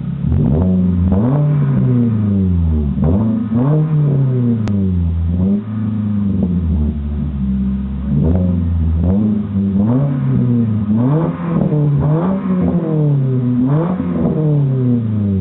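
Kia Cerato with a dual exhaust, its engine blipped again and again, the pitch rising and falling about once every second or two.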